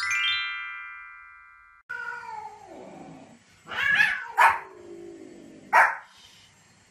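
A bright chime rings out and fades away over the first two seconds. Then comes a drawn-out, wavering animal call, followed by a white Pomeranian's short, sharp barks, about three of them.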